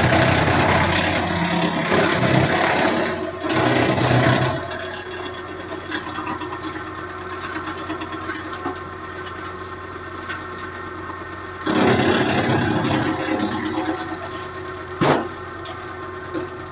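Wood chipper's engine running steadily, with louder rough surges for the first few seconds and again about twelve seconds in, and a sharp knock about fifteen seconds in.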